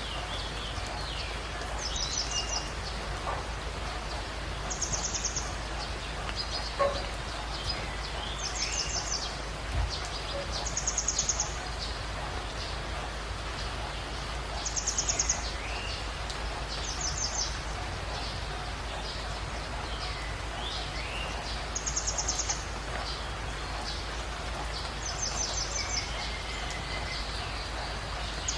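Birds calling over a steady background hiss: a high, short trilled call repeats every two to three seconds, while other birds give lower whistled notes that rise and fall.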